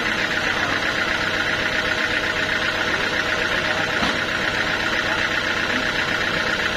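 Sawmill machinery running steadily, an even engine drone with a fast, fine chatter, unchanging throughout.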